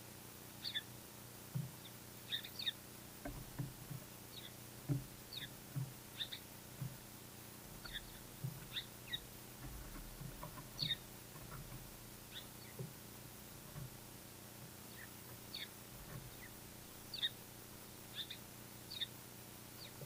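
Small songbirds chirping: many short, separate high chirps scattered irregularly, with soft low taps in between.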